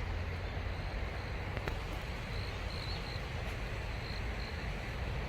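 Wind rumbling on the microphone over a steady rush of flowing water, with short high chirps repeating every half second or so.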